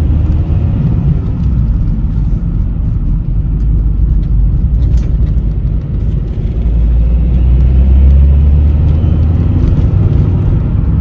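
Vauxhall Meriva B automatic being driven: a steady low rumble of engine and road noise, swelling louder about seven seconds in and easing back near the end.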